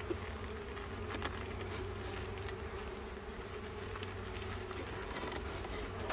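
A swarm of honeybees buzzing steadily around an open hive, with a few light clicks and scrapes.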